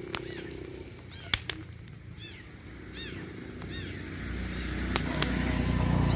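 Short, repeated chirping animal calls over outdoor ambience, with a few sharp clicks. From about four seconds in, a low engine rumble grows steadily louder, like a motor vehicle approaching.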